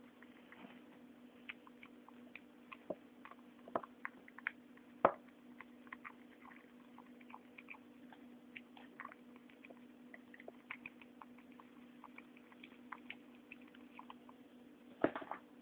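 Kitten chewing food: faint, irregular little clicks and smacks over a steady low hum, with one louder click about five seconds in and a short cluster of clicks near the end.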